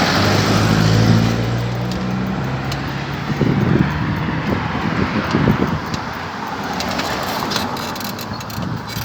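Motor vehicle passing close by in the first couple of seconds, its engine hum fading out, over steady road and wind noise, with scattered light clicks later on.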